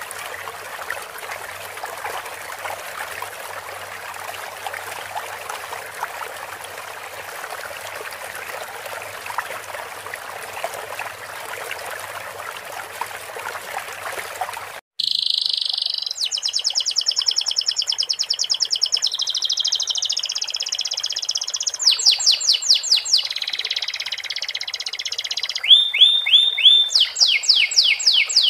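Trickling water runs for about the first half and cuts off suddenly. A domestic canary then sings rapid trills and quickly repeated notes, a song filled in with learned sikatan londo phrases.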